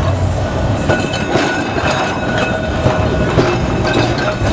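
Vintage electric tram running along the track, with a steady hum and repeated clicks and knocks from the wheels on the rails.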